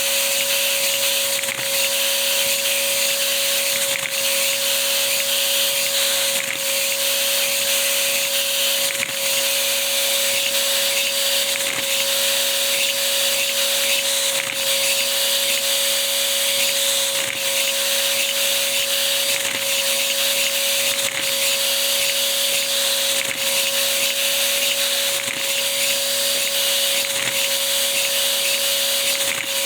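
Vacuum cleaner running steadily with a constant whine and airy hiss, its suction driving a three-cylinder cam-timed Lego vacuum engine.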